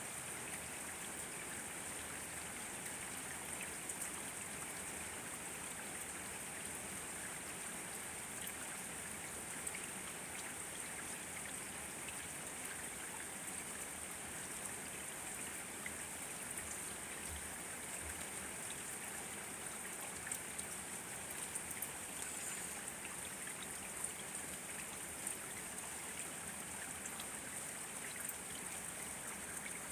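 Steady rain falling: an even hiss with a steady high-pitched band on top and many scattered sharp ticks of single drops.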